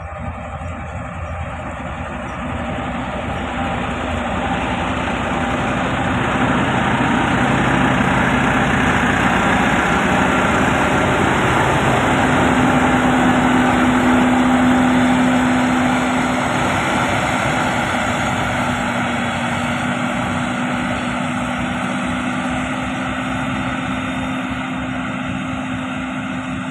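Diesel engine of heavy road-building machinery running steadily. It grows louder over the first several seconds, then eases slightly, with a steady low hum from about twelve seconds in.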